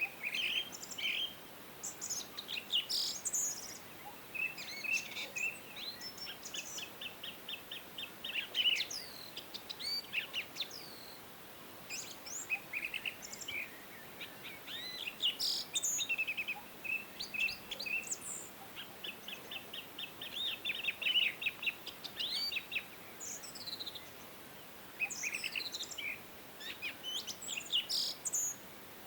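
Several songbirds singing and calling at once: overlapping chirps and quick runs of repeated notes, over a faint steady hiss of outdoor background.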